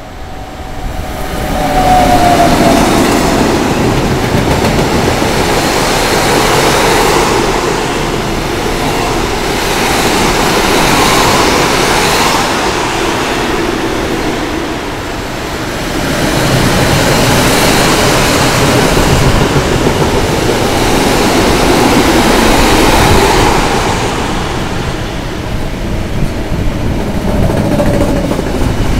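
Mixed freight train passing close at speed: the locomotive arrives and then a long line of tank, hopper and covered wagons rolls by, steel wheels rumbling and clattering over the rails. The noise builds a second or two in and then swells and eases in long waves as the wagons pass.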